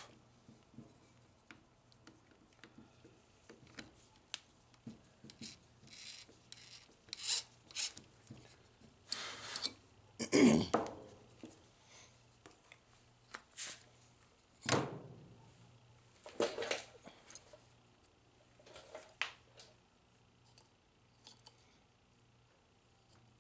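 Hand-work noises on vending-machine gearbox parts: scattered clicks, rubs and scrapes of plastic and metal pieces being handled and fitted, with a louder scrape about ten seconds in and another near fifteen seconds.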